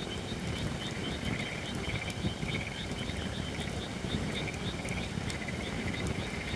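Holly firewood burning in a campfire, a steady low hiss and rumble with a few sharp crackles and pops. Behind it a small animal calls continuously, a high chirping repeated about four times a second.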